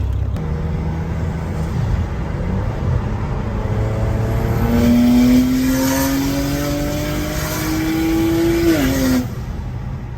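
Single-turbo BMW 335i's turbocharged inline-six pulling hard under throttle: after a few seconds of steady running, the engine note climbs steadily for about four seconds with a hiss over it. Then the throttle closes and the sound falls away near the end.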